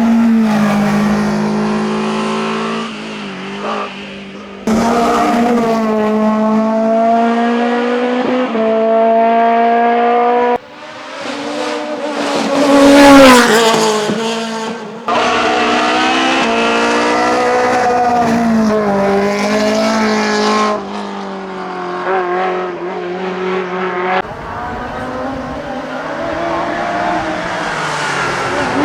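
Simca Rallye 2 racing car's engine at high revs, its pitch climbing through each gear and dropping at the shifts. It is heard in several abrupt shots in turn and is loudest about 13 seconds in, where it passes close.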